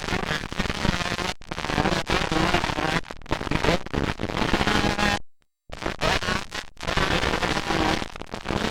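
125cc two-stroke motocross bikes racing, engines revving up and down with a crackling edge. The sound cuts out completely for about half a second a little after five seconds in.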